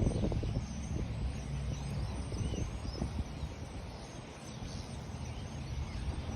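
A flock of birds calling, heard as faint, scattered short chirps over a steady low rumble.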